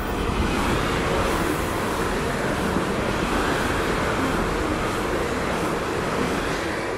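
Electric train running past close by: a loud, steady rush of wheel-on-rail and running noise.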